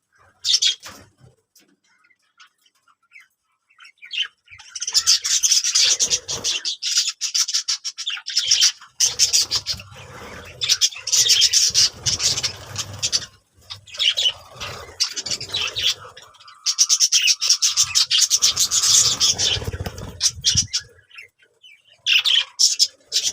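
Birds chirping and chattering in several long bursts of dense, rapid high-pitched calls, with short quiet gaps between them.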